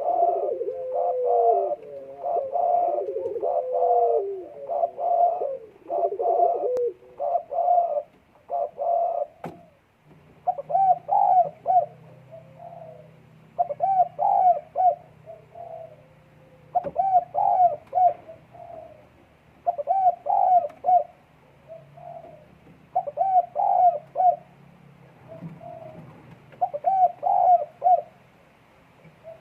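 Puter dekukur dove in breeding condition cooing: a fast run of short coos for the first several seconds, then repeated groups of two or three coos every second or two.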